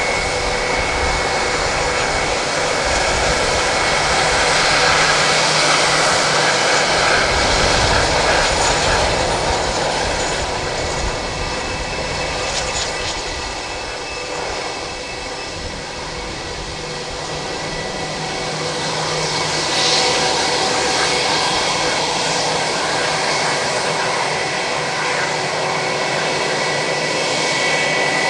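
Airbus A320-232's IAE V2500 turbofan engines running near idle, a steady jet whine with constant high tones over a rushing noise that swells, eases off midway and swells again.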